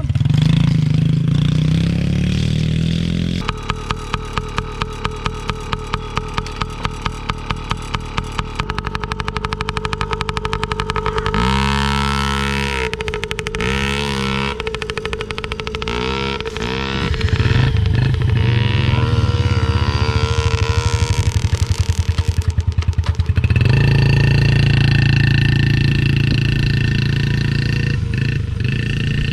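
Dirt bike engine running, its pitch rising and falling several times in the middle as it is revved, then settling into a steadier run near the end.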